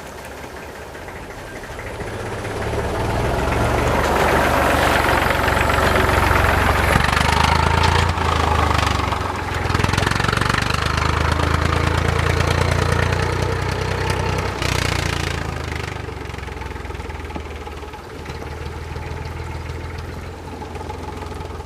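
An engine running with a low rumble. It grows louder about two seconds in, stays loudest through the middle, and eases off after about sixteen seconds.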